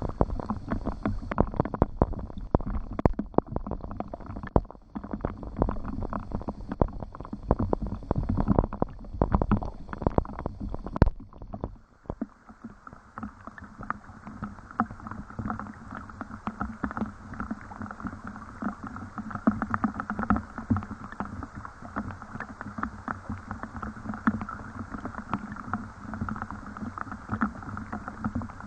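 Rain falling, a dense patter of countless drops. A heavy low rumble underneath stops abruptly about twelve seconds in, and the patter goes on steadily after it.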